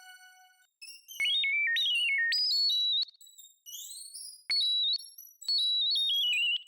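A high-pitched electronic lead melody in short stepping phrases that cut in and out abruptly, with quieter rising glides in the gaps, as it is auditioned for a 90s R&B-style beat.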